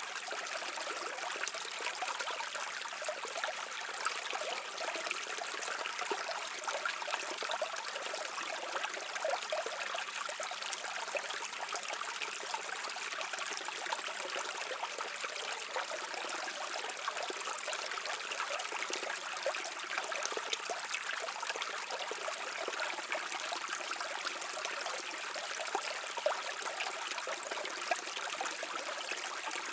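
A brook flowing steadily: an even rush of water, full of small trickling splashes.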